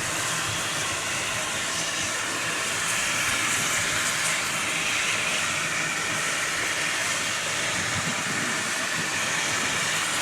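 Steam locomotive letting off a steady hiss of steam.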